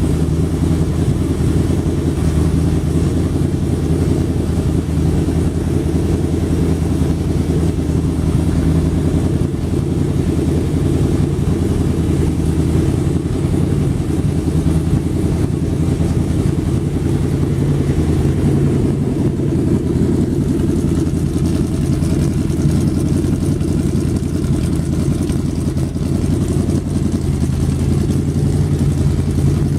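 Freshly rebuilt 426 Hemi V8 running steadily on an engine test stand during its break-in run, at an idle set up a little, exhausting through dual glass-pack mufflers straight off the manifolds.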